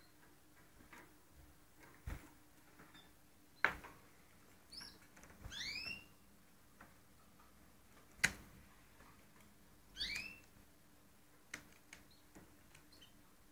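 Canaries giving short chirp calls that rise and fall, roughly every four to five seconds. Two sharp clicks fall between the calls, with a faint low steady hum underneath.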